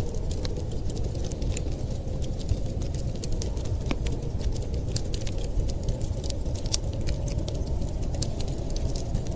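Wood fire crackling, with frequent small sharp pops at irregular intervals over a steady low rumble.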